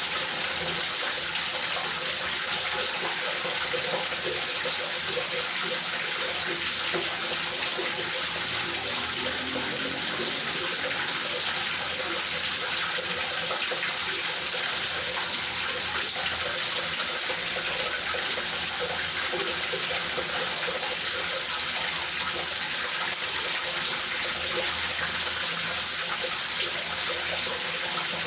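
Rain falling steadily, an even hiss that doesn't change.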